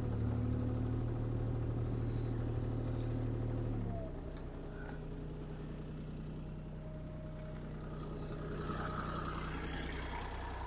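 Diesel engine of a CAT 303C CR mini excavator running steadily. About four seconds in it drops to a lower engine speed and keeps running there.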